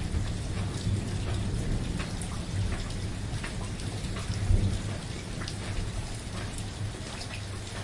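Steady gentle rain, with many separate drops ticking close by over a low rumble; the rumble swells briefly about four and a half seconds in.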